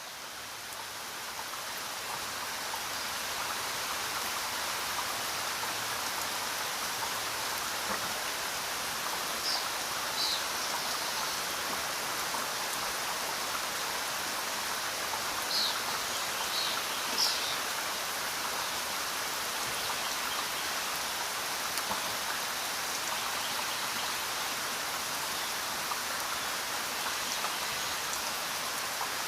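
Steady rain falling, fading in over the first few seconds. A few short high-pitched chirps sound in the middle.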